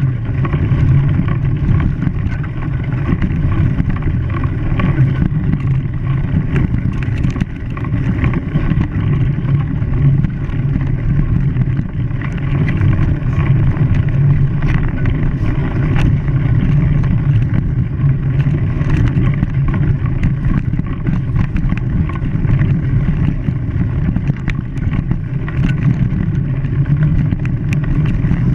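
A steady low engine rumble with a noisy hiss above it, holding at the same level throughout.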